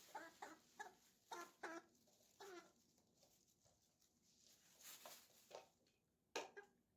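Pet chicken clucking: a quick run of short clucks in the first few seconds, then a few more near the end.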